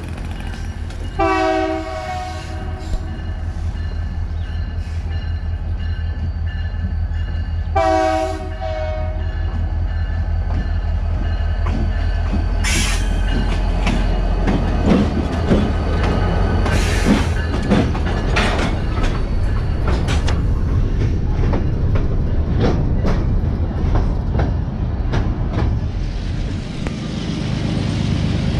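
Freight train's diesel locomotive approaching and sounding two long horn blasts about six seconds apart, then its engine rumbling as it passes close by. Freight cars follow, rolling past with rapid wheel clicks and a few brief high squeals.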